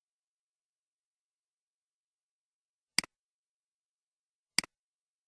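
Two sharp computer-mouse clicks, about a second and a half apart, each a quick press-and-release double click of the button, over dead silence.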